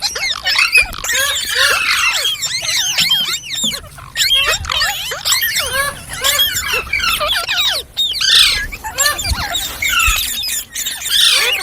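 Indian ringneck parrot chattering: a dense run of short, squeaky notes, each rising and falling in pitch, with brief pauses about four and eight seconds in.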